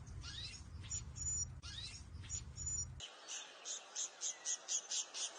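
Songbirds chirping: rising chirps and short high whistles over a low rumble, then, after an abrupt change about three seconds in, a rapid run of even chirps, about four a second.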